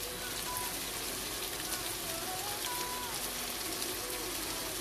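Sliced onions and tomatoes sizzling steadily in a frying pan.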